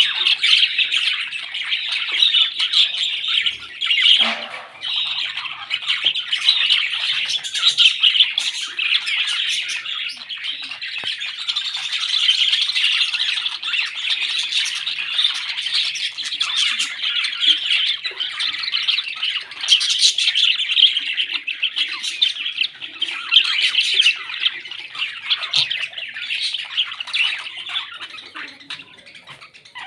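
Parrots chattering and squawking without a break, a dense high-pitched stream of calls that dies down near the end.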